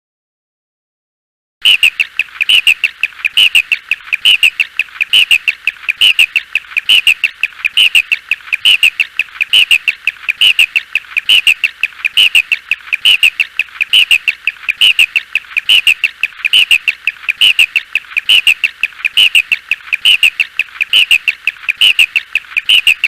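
A small animal's high chirping call, repeated at an even pace of about three chirps every two seconds, starting after a second and a half of silence.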